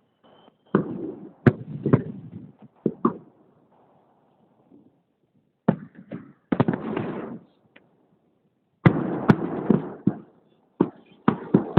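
Fireworks salute going off in repeated salvos: sharp bangs, each followed by a rumbling crackle, in four or five bursts with short lulls between.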